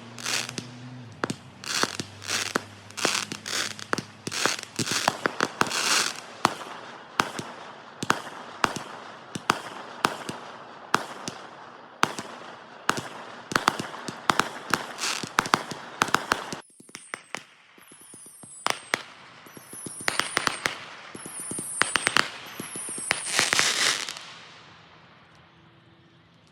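Fireworks display: a dense run of bangs and crackling, then about five high whistles that fall in pitch among scattered bangs, and a last burst of crackling before the sound fades near the end.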